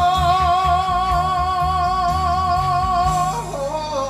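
Hymn singing: one voice holds a long note with vibrato, then slides down to a lower note about three seconds in, over a low, pulsing accompaniment.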